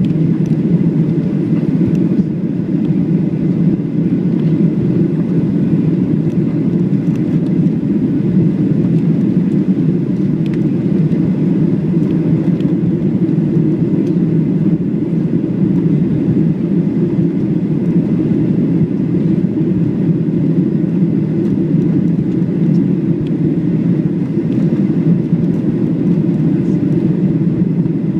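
Boeing 737-700's CFM56-7B engines and airflow, heard as a steady, loud low drone inside the passenger cabin.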